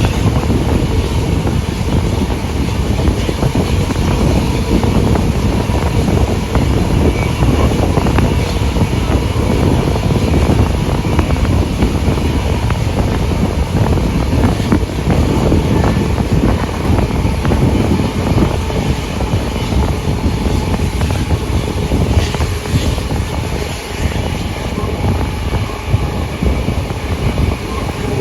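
Steam-hauled passenger train running steadily, heard from on board, with wind buffeting the microphone.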